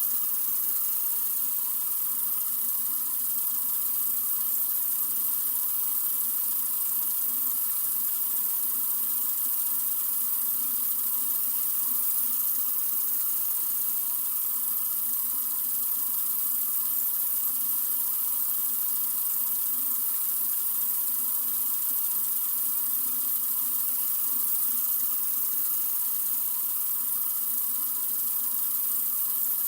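Water running from a sink faucet in a steady, continuous stream, an even hiss with no change.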